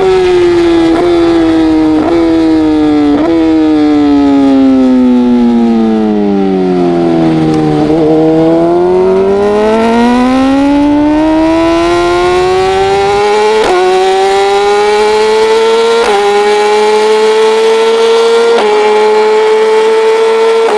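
Racing motorcycle engine braking into a corner and accelerating out. Its note falls over the first eight seconds, with three short upward blips as it downshifts, then climbs steadily, dropping back three times as it shifts up through the gears.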